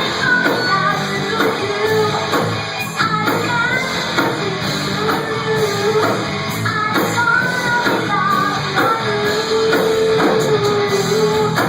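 Live rock band playing: a singer over guitars and drums, with a long held vocal note near the end.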